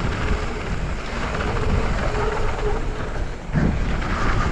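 Wind rushing over the action camera's microphone, mixed with the rolling noise of a mountain bike's tyres on a dirt trail during a descent.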